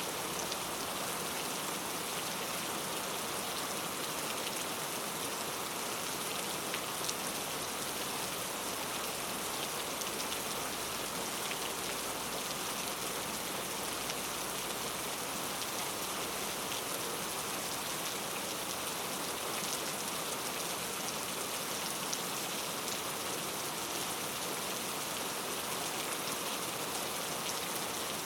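Steady rain falling in a forest, a continuous hiss with faint scattered drop ticks.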